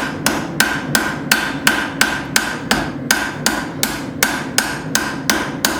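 Blacksmith's hand hammer striking hot steel on an anvil at a steady pace, about three blows a second, each with a short metallic ring: light blows texturing the surface of a forged iron hook. A steady low hum runs underneath.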